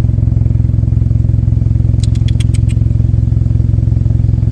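An engine idling steadily with a low, even hum. About two seconds in, a quick run of about six sharp high clicks is heard over it.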